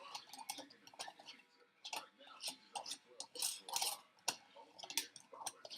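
Irregular clicks, taps and short scrapes of kitchen containers and utensils being handled, several a second, with a few brief rustling hisses about halfway through.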